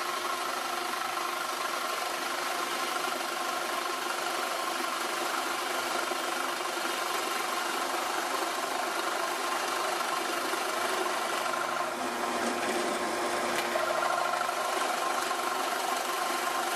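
Drill press motor running steadily, boring holes in a wooden board with a Forstner bit. The tone shifts slightly about twelve seconds in.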